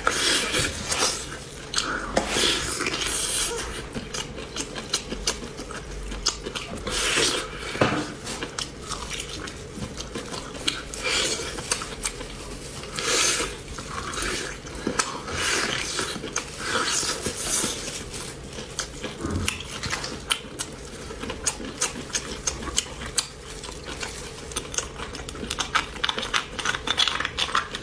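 Close-up eating sounds of beef bone marrow being chewed and bitten, mixed with clinks of dishes and utensils, in a busy run of short irregular clicks and bursts.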